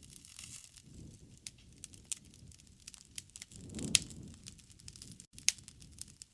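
Wood campfire burning, with irregular sharp crackles and pops over a low rush of flame that swells briefly near the middle; the loudest pops come just before the middle and about two thirds through.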